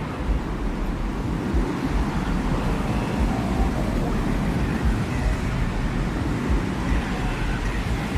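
Steady desert wind ambience: a continuous low, gusting rumble with a hiss of wind over it, with no distinct events.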